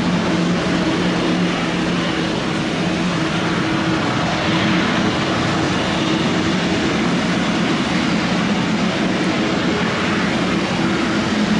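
Boeing 777 jet engines at takeoff power: a steady roar with a low hum running through it.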